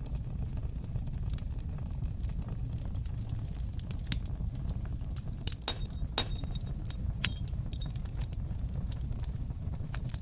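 Wood fire burning in a fireplace: a steady low rumble of flames with scattered sharp crackles and pops, and one louder pop about seven seconds in.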